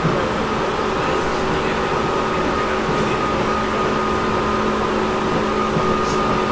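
Tobu 10000 series electric train car running between stations, heard from inside the car above the main controller: a steady running rumble with a steady hum. The car's air conditioning is running.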